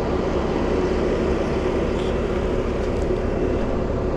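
Bobcat skid steer engine running steadily, with a constant low drone and a held tone.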